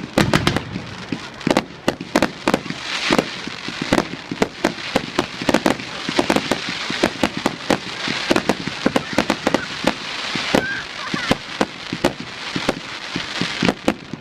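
Fireworks display: a rapid, dense run of sharp bangs from aerial shells and cakes, with continuous crackling between them.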